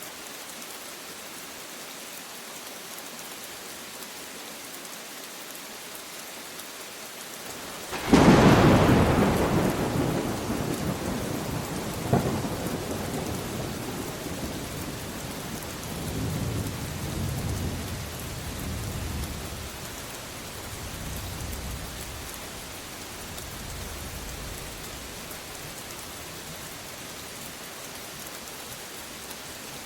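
Steady rain falling, with a sudden close thunderclap about eight seconds in, a second sharp crack a few seconds later, and low rumbling that rolls on and fades away over the next dozen seconds.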